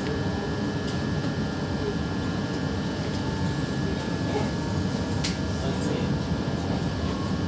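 Cabin noise of an electric commuter train (EMU) under way: a steady low rumble of wheels on track with a constant high whine over it, and one sharp click about five seconds in.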